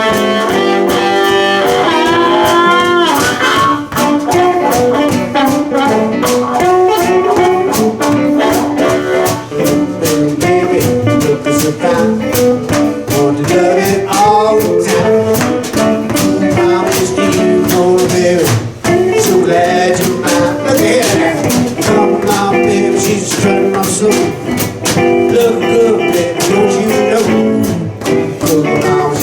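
Live blues band playing a boogie blues: guitars over a steady drum beat, with bending notes.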